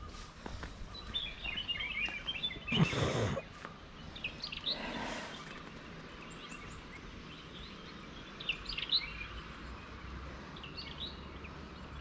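Small birds chirping in short scattered calls, with a brief loud rush of noise about three seconds in and a softer one about five seconds in.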